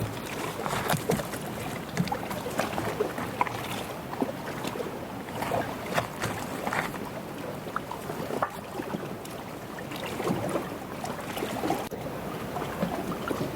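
Small waves lapping and splashing irregularly at a lake shore, with a little wind.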